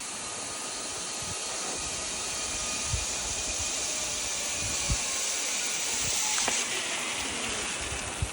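Water rushing and spraying down a water slide: a steady hiss that slowly builds, with a couple of light low thumps.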